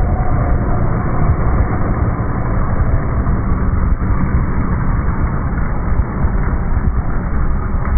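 A rally vehicle's engine running with a steady, heavy low rumble.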